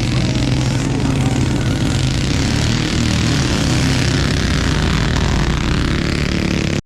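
Several small single-cylinder mini bike engines running hard together in a race, a steady loud drone with pitches that shift as riders change throttle, cutting off abruptly at the end.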